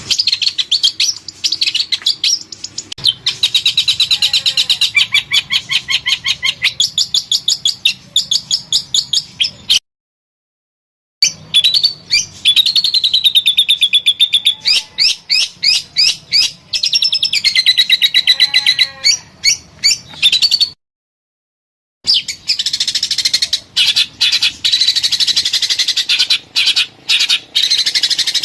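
Songbird song: fast runs of sharp, high repeated chirps and warbling trills, as used to train a caged bird to sing. The song breaks off into dead silence twice, about ten and twenty-one seconds in, where separate recordings are spliced together.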